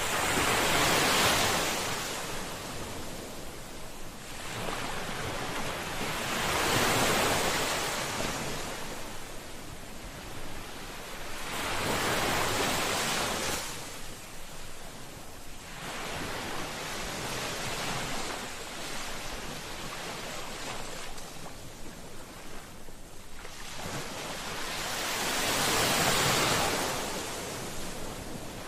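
Sea waves breaking on the shore: a rush of surf that swells and fades about every five to six seconds.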